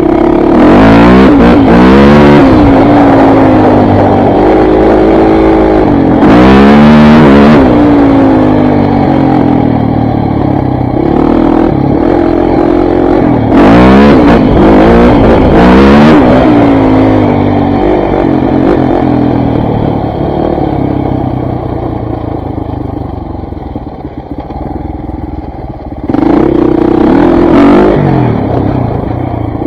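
KTM 400 MXC dirt bike's four-stroke single-cylinder engine being ridden, revving up and down again and again as the throttle is worked. There are loud surges of rising pitch near the start, around 7 s and around 14–16 s. The engine eases off in the twenties, then picks up again near the end.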